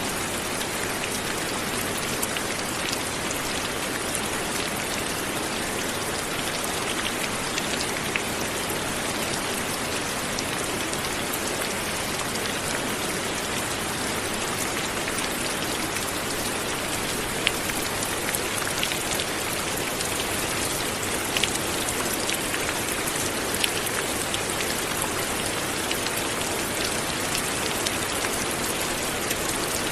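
Light, steady rain falling, with individual drops ticking sharply here and there over an even hiss.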